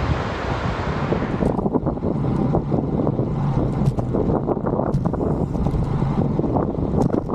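Wind rumbling over the microphone while riding a bicycle, with scattered ticks and knocks. The higher hiss drops away suddenly about a second and a half in.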